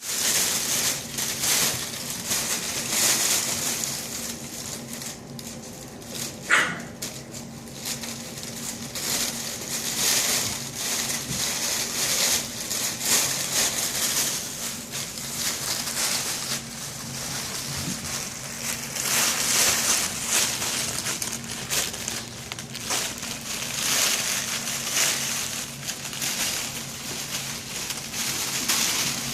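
Puppies playing: irregular scuffling and rustling noises, with one short, high yelp about six and a half seconds in.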